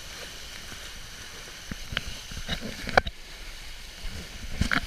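Water rushing and gurgling along the hull of a small sailing boat under way, a steady rush with a few sharp knocks, the loudest about three seconds in and near the end.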